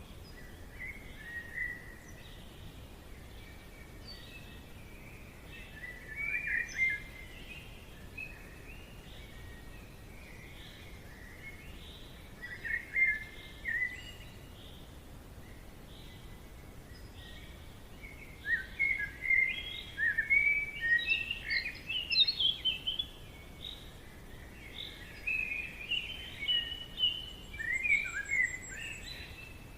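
Forest ambience: several birds singing and chirping in short phrases over a steady faint background hiss, the birdsong becoming busier and louder in the second half.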